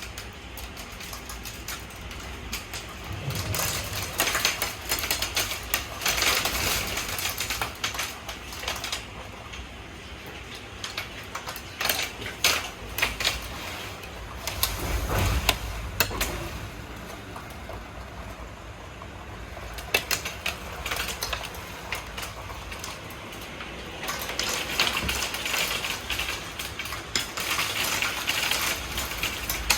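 Hailstones clattering on hard surfaces: a dense, uneven patter of sharp hits over a hiss of falling ice and rain. It comes in heavier spells a few seconds in and again near the end.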